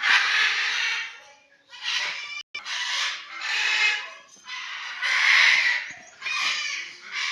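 Parrots squawking: about six loud, harsh screeches in quick succession, each lasting under a second.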